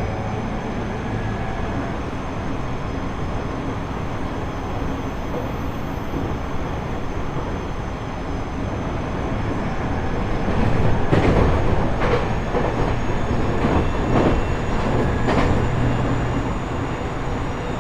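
JR East E127 series electric train running at speed, heard inside the motor car. From about ten seconds in the wheels knock over rail joints in quick pairs, a clickety-clack several times over.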